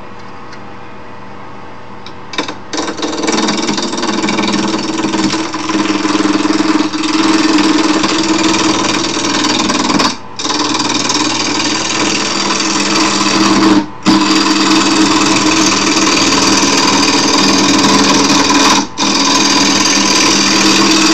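Wood lathe motor humming, then from about two seconds in a turning tool cutting into the spinning wood blank. The cut is a loud, steady scraping with three brief breaks. The blank is still out of round.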